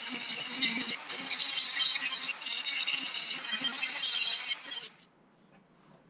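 Rapid, dense clinking and rattling of hard objects with a ringing edge, stopping abruptly about five seconds in.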